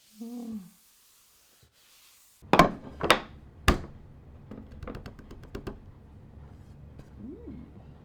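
Three sharp knocks in quick succession, about half a second apart, then a string of lighter clicks and taps.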